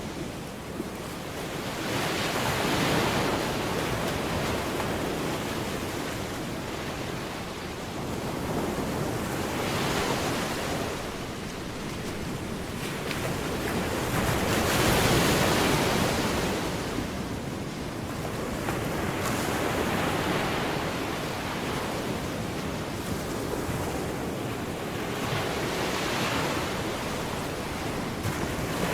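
Ocean surf breaking on a shore: a steady rushing wash that swells with each wave about every five to seven seconds, then falls back.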